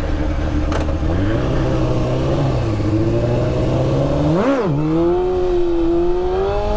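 Honda CBR600F3 inline-four engine pulling hard under throttle for a wheelie. About four and a half seconds in the revs flare sharply and drop back, then the engine holds a steady, higher note. Wind noise is heard over it.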